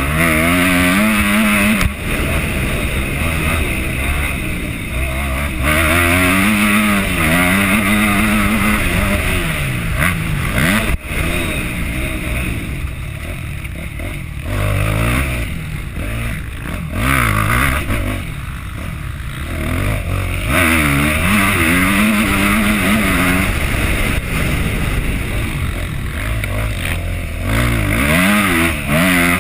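Yamaha motocross bike engine working through a lap: it revs hard, then backs off and picks up again over and over, its pitch climbing and dropping with each burst of throttle.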